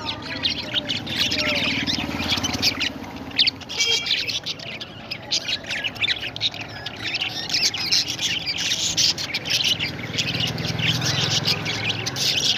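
Many parrots chirping and calling at once in a dense, continuous chatter of short high calls, with a low hum underneath near the start and again near the end.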